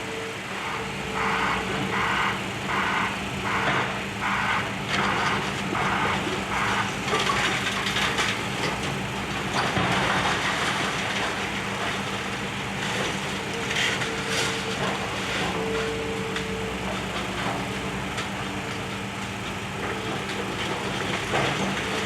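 Demolition excavator's diesel engine running steadily, with a rhythmic rattle about twice a second for several seconds. About ten seconds in comes a louder crunch of debris breaking.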